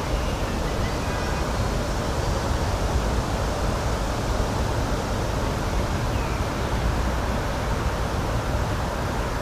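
Steady rushing outdoor nature ambience with a heavy low rumble, with faint high chirps about a second in and again around the middle.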